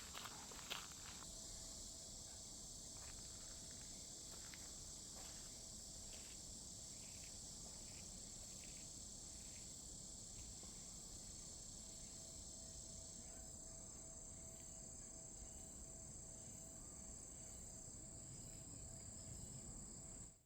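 Insects trilling in a steady, high-pitched drone, with a couple of footsteps in the first second; the sound cuts off abruptly at the very end.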